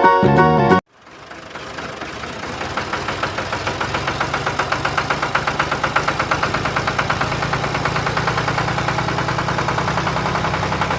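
Small DC motor of a homemade toy tractor running, with a fast, even rattling pulse. It starts about a second in as the music stops, builds up over the next few seconds, then runs steadily.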